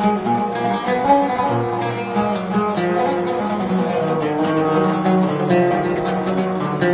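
Music on a plucked string instrument: a quick, continuous run of picked notes over sustained lower tones.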